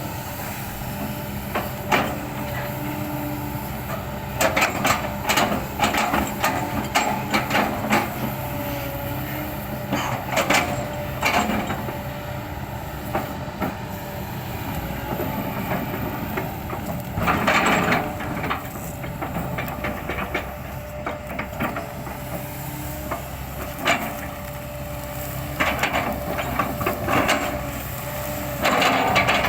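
Kobelco excavator's diesel engine running steadily while its bucket chops an oil palm trunk, with clusters of sharp cracks and knocks of splitting wood every few seconds.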